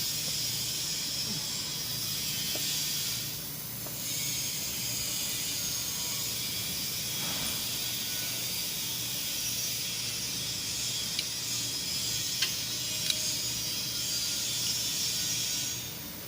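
Steady high hiss over a low steady hum, with a few faint ticks about two-thirds of the way through.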